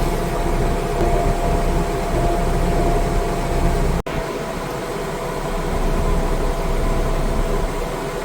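An engine running steadily at a constant speed, with a brief dropout about four seconds in.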